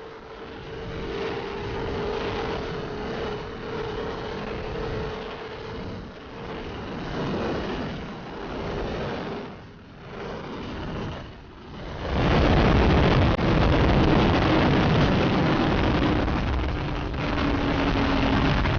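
Motorcycle running on the road, a steady engine tone under the rush of riding. About twelve seconds in it turns much louder, a heavy rush of engine and wind noise, with a falling engine tone near the end.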